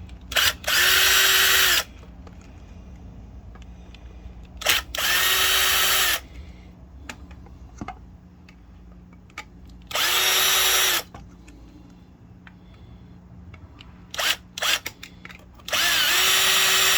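Power drill-driver run in four short bursts of about a second each, backing out the four small screws that hold a septic aerator pump's diaphragm cover. Small clicks between the bursts.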